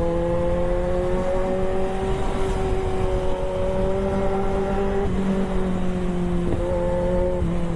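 Sports motorcycle engine running steadily under way, its pitch creeping up slowly and then dipping briefly twice near the end, over wind rush.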